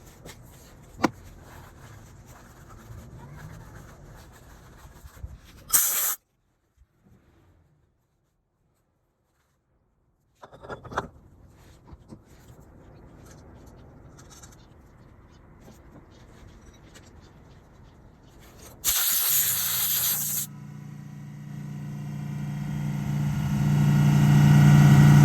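Low-level handling noise with a few clicks and two short, loud hisses, then a stretch of silence. About three quarters of the way through, a Suzuki Swish 125 scooter's single-cylinder four-stroke engine starts and runs with a steady note, growing louder towards the end. This is its first run after a drive belt replacement.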